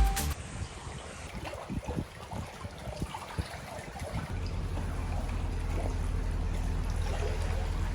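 Water trickling and dripping with scattered small drips, then a narrowboat's motor running steadily underneath from about four seconds in.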